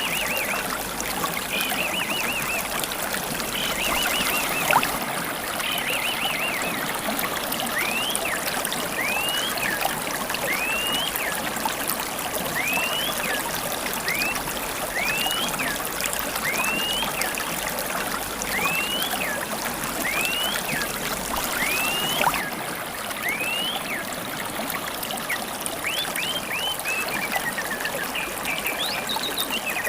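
Steady trickling of a shallow stream with wild birdsong mixed over it: trilled phrases at first, then one bird repeating a short rising call that drops at the end, about once a second. A sharp click is heard twice.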